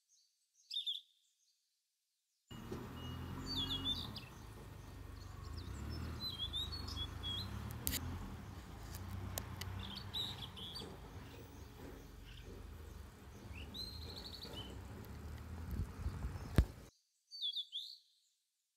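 A short bird call, then birds chirping every few seconds over a low outdoor rumble with a few clicks. A sharp knock comes near the end, and then one more short bird call.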